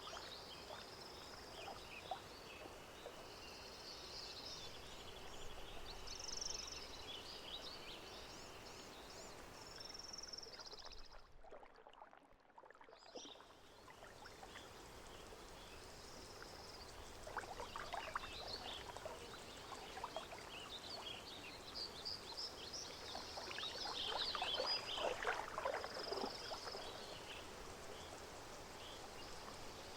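Lake nature-sound ambience: small birds chirping over gently lapping, splashing water. The water grows louder twice, and the whole bed dips briefly about halfway through.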